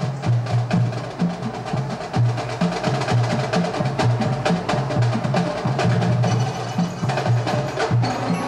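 A school marching band playing, with drums and struck percussion over a repeating low line of notes.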